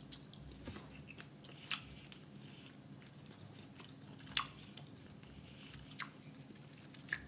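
A person quietly chewing pieces of rotisserie chicken, with a few faint, sharp mouth clicks scattered through, the two clearest about two and four and a half seconds in.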